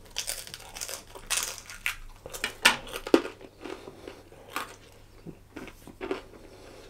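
A person biting into and chewing a piece of sriracha BBQ-coated chicken thigh close to the microphone: irregular mouth noises and small clicks.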